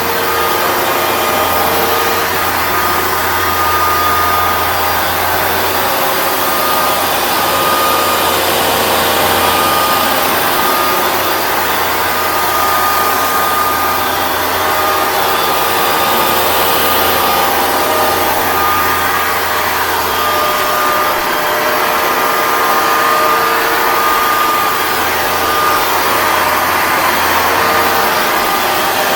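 Hoover Dual Power Max Pro (FH51010) carpet cleaner running steadily, its motor noise carrying a thin whine.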